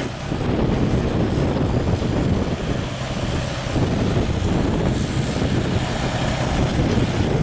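An engine running steadily with a constant low hum, with wind buffeting the microphone.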